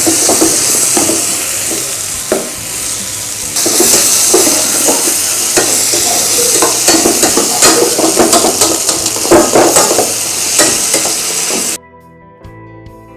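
Chopped vegetables sizzling as they sauté in hot oil in a stainless steel pot, stirred with a metal perforated ladle that scrapes and knocks against the pot. The sizzling cuts off suddenly near the end.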